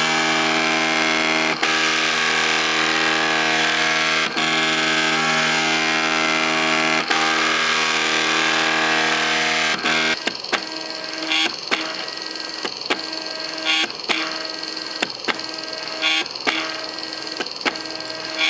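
MakerBot 3D printer's stepper motors whining steadily with several tones at once as the print head moves. About ten seconds in, the sound drops abruptly to quieter tones broken by irregular short ticks.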